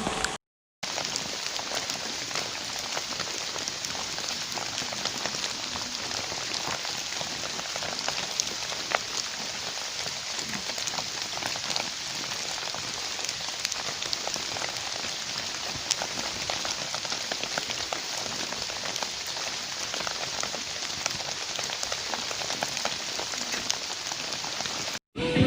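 Steady rain falling, a continuous hiss with many small drop taps.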